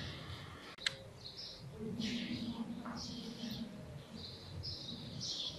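Birds chirping in short, repeated bursts over a low murmur of distant voices, with a single sharp click about a second in.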